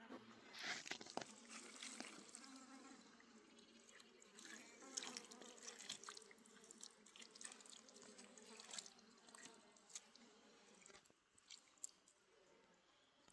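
Faint water splashing and dripping in irregular bursts, with scattered small clicks and knocks.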